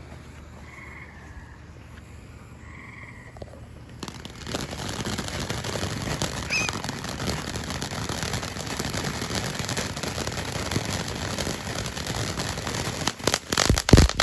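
Frogs croak a few times over a quiet background. About four seconds in, a small Phantom Moon Dance box fountain catches and sprays with a steady hiss. Near the end it turns to a rapid run of sharp pops.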